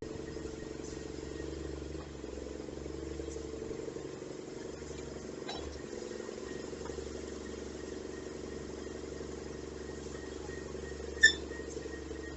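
Garbage truck's diesel engine running steadily at low speed, with a single sharp clank about eleven seconds in.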